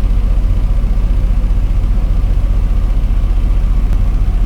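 A diesel truck engine idling with a steady low rumble.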